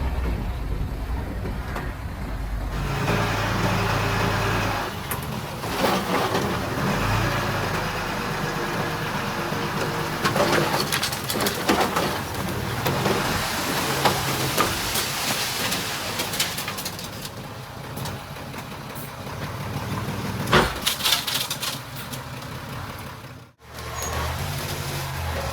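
Earthmoving machinery at work: diesel engines running with irregular clanks and rattles of metal and dirt. The sound breaks off for an instant near the end and picks up again.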